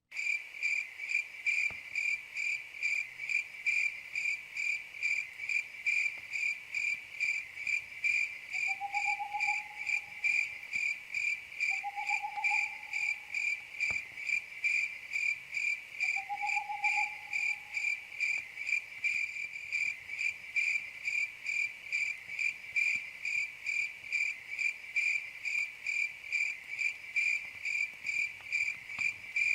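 Crickets chirping in a steady, rapid rhythm of high, pulsed chirps. Three short lower calls from another animal come about a third of the way through and just after the middle, and a few faint clicks sound now and then.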